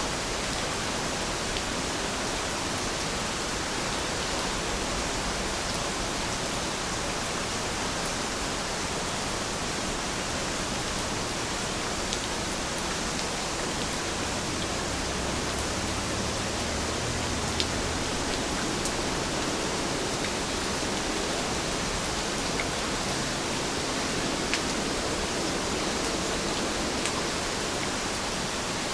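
Heavy rain falling steadily, an even hiss with a few faint sharp drip ticks.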